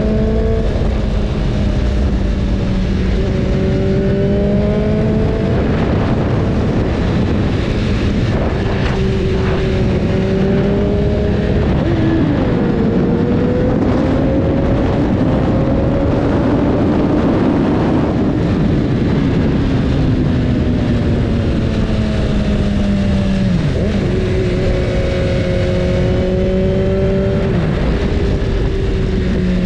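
BMW S1000RR inline-four engine running at a steady cruise, its pitch sliding slightly and dipping briefly a few times, under a heavy rushing noise.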